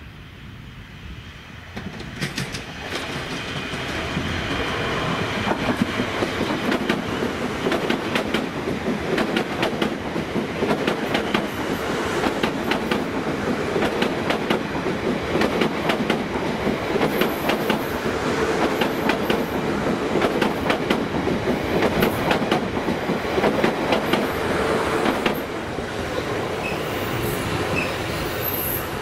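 A Class 450 electric multiple unit passing through the station. Its wheels clatter over the rail joints in a rapid run of clicks, with some wheel squeal. The sound builds over the first few seconds and drops off near the end.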